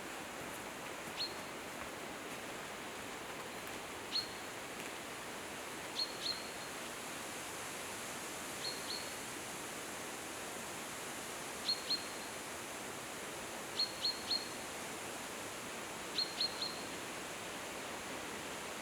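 A bird's short, high chirps, singly or in quick runs of two or three every couple of seconds, over a steady, even hiss.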